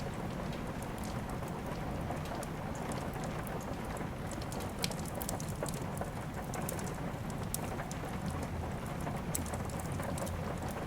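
Steady rain, mixed with the crackle of a wood fire in a fireplace: many scattered sharp pops over an even rushing hiss and low rumble, with one louder pop about five seconds in.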